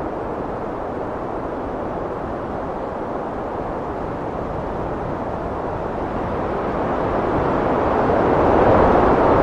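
Heavy wind blowing in a steady rush that swells louder about two-thirds of the way through.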